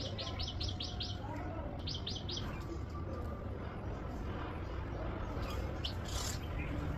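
A bird giving rapid runs of high chirps, about five a second: one run in the first second, three chirps about two seconds in, and a few scattered calls near the end. A steady low rumble runs underneath.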